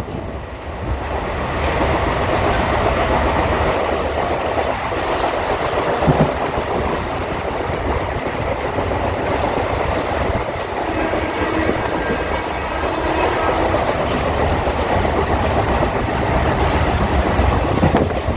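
Train running on the rails: a steady rumble with the clatter of wheels over the track.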